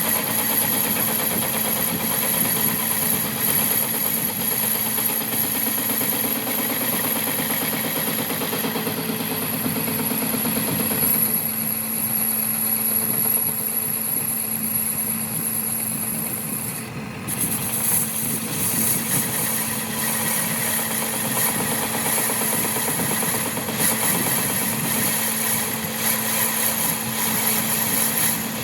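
A workshop machine running steadily, with a constant low hum and a high whine. The sound briefly dips and cuts about two-thirds of the way through.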